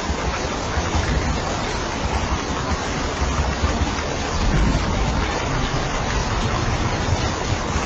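Steady heavy rain falling as an even hiss, with a low rumble underneath that swells and fades.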